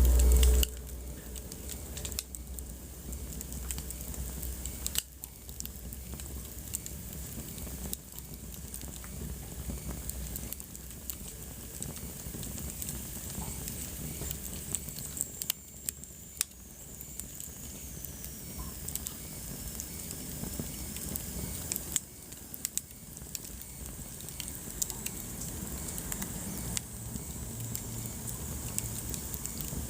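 Wood fire burning in a fireplace, crackling and popping over a steady hiss. A short low thump comes right at the start, and a faint high whistle slides down in pitch around the middle.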